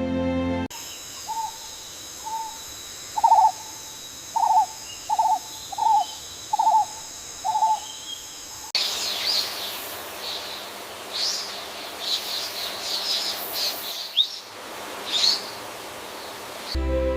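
Forest birds calling: first a series of about eight short, owl-like hoots at uneven intervals over a steady high ringing, then, after a sudden change, a busier mix of higher chirps and whistles.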